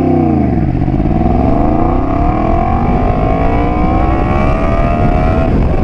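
Yamaha FZ-10 motorcycle's inline-four engine, heard from the rider's seat. The engine note dips briefly, then rises steadily in pitch for about five seconds as the bike accelerates through the gear, and cuts back near the end.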